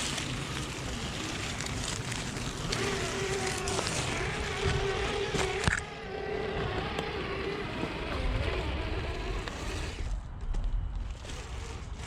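Hobbywing Quickrun Fusion brushless motor and geartrain of a radio-controlled scale crawler truck whining as it drives, the whine starting and stopping, over a steady rough noise, with a sharp click about five and a half seconds in.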